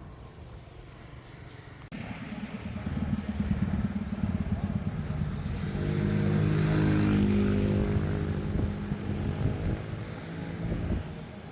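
A motor vehicle engine, likely a motorcycle, running with a steady pitch. It swells to its loudest about six to eight seconds in and dies away near the end, like a vehicle passing close by. It starts abruptly about two seconds in over a low rumble.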